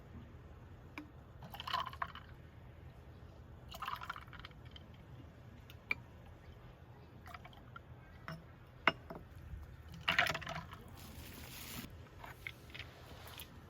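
Short pours or sloshes of liquid, three or four of them, with a few sharp clicks of small objects being handled.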